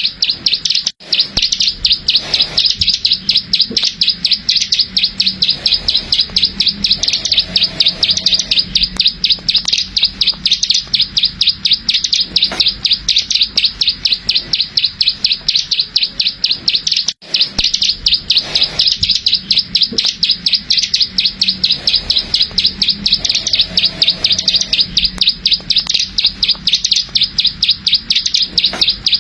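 Plain prinia (ciblek sawah) giving its rapid 'klik-klik' call: a continuous fast run of sharp, high repeated notes. It breaks off twice for an instant, about a second in and again a little past halfway.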